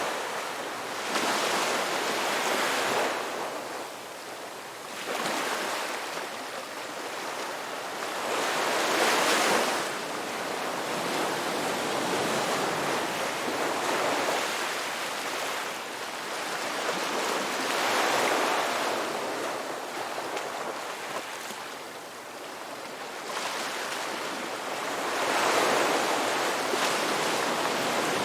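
Ocean waves breaking and washing on a beach, in swells about every four seconds.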